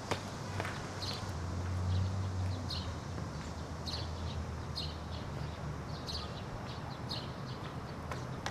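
Small birds chirping in short, high, repeated calls about once a second over a low steady hum, with a few faint taps.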